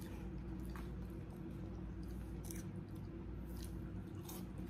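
Close-up eating sounds: chewing, with a few soft mouth smacks and clicks, over a steady low hum.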